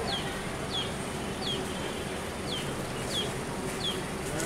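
A bird repeating a short, high, falling chirp six times, about once every three-quarters of a second, over the steady low rumble of a diesel locomotive approaching slowly.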